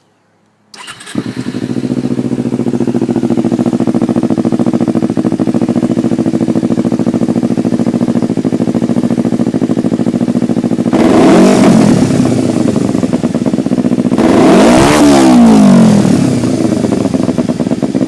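Kawasaki Ninja 250R's 249 cc parallel-twin engine with a Two Brothers aftermarket exhaust starting about a second in, then idling steadily. It is blipped twice, the pitch rising and falling each time, before settling back to idle.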